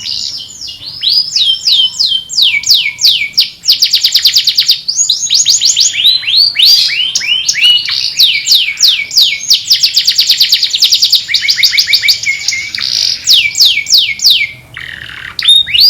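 Domestic canary singing: quick runs of repeated downward-sweeping notes alternating with rolls of very fast, high trills, with a short lull about a second before the end.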